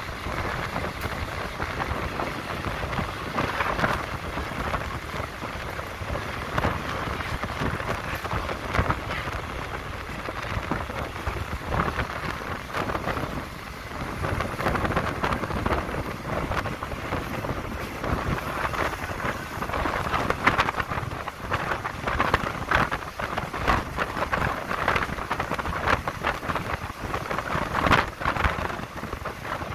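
Steady rumble and rush of a moving train heard through an open window, with wind buffeting the microphone and irregular sharp knocks.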